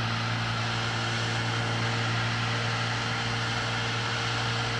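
Butane torch lighter's flame hissing steadily while it heats a metal bracket on windshield glass, over a constant low electrical-sounding hum.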